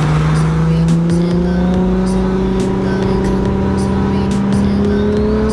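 Datsun 280Z's swapped RB25DET turbo inline-six pulling steadily under load, its pitch climbing slowly, then falling away near the end as the revs drop for a shift. Background music with a steady beat underneath.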